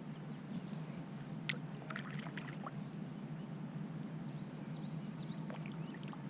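Kayak paddle strokes: water splashing and dripping off the paddle in two short clusters, a sharp splash about a second and a half in, over a steady low background noise.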